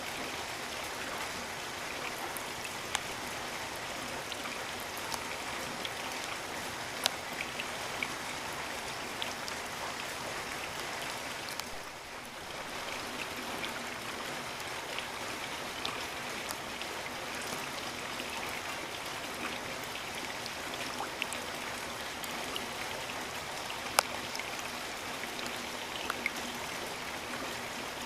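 Steady rain falling, an even hiss of drops, with a few sharper single drop hits standing out, the loudest late on.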